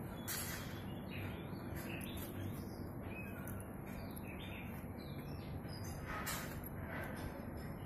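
Birds chirping in short calls over a steady low background noise, with a brief burst of noise just after the start and another about six seconds in.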